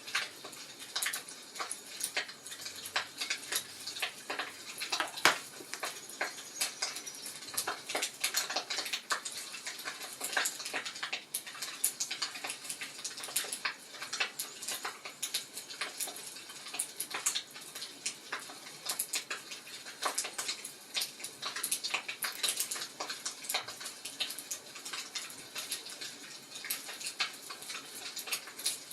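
Wood fire crackling: irregular sharp crackles and pops over a soft hiss, with one louder pop about five seconds in.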